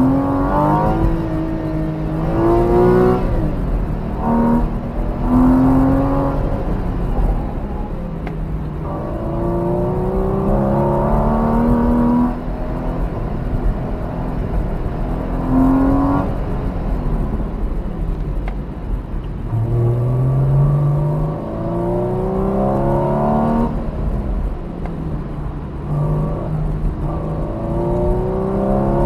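Porsche 981 Cayman's mid-mounted flat-six engine, heard from inside the cabin, repeatedly revving up in rising surges and dropping away between them as the car is driven hard through an autocross course.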